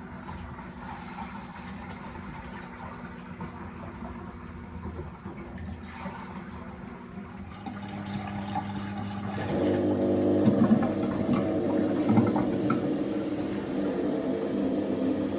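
Fisher & Paykel MW059NZ washing machine: water rushing through it for the first several seconds, then about eight seconds in its motor starts and builds over a second or two into a steady, louder whirring hum.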